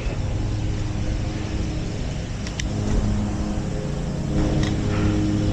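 Wind rushing over the microphone while cycling, over a steady low hum.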